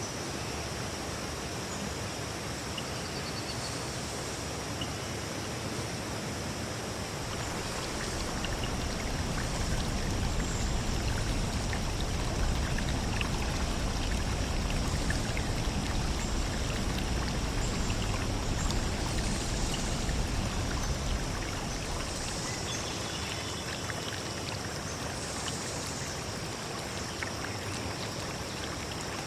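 Forest ambience of steadily flowing stream water, swelling louder and deeper for about twelve seconds in the middle, with a thin steady high hiss above it and a few faint chirps.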